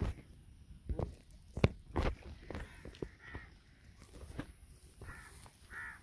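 Several heavy thumps in the first two seconds, then a bird's short, harsh, caw-like calls three times in the second half.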